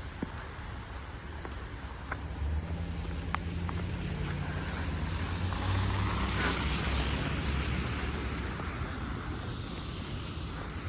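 Snowstorm wind blowing in gusts, swelling to its loudest about six seconds in, over a low rumble of wind buffeting the microphone.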